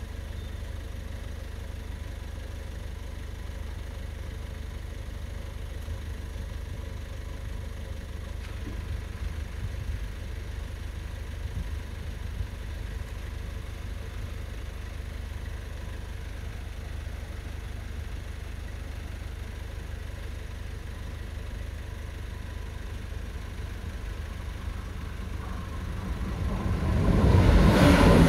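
A steady low engine rumble from an idling vehicle. About two seconds before the end, a diesel passenger train approaches and its noise swells sharply to the loudest point.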